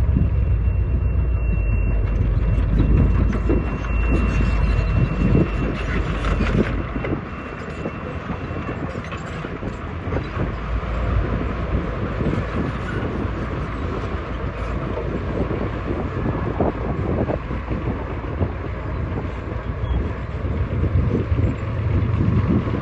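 Heavy earthmoving machine at work: a diesel engine running with clanking and clattering of metal. A deep rumble is heavy for the first several seconds and eases after about seven seconds, and a thin high whine sounds over the first nine seconds or so.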